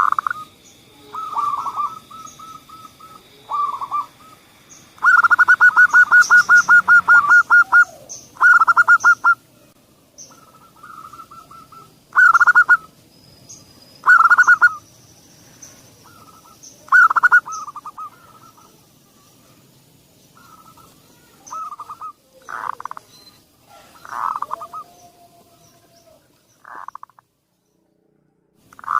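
Zebra dove (perkutut) cooing: repeated short phrases of soft, pitched coos, with a long, fast run of staccato notes about five seconds in. Faint high chirps from other small birds sound in the background.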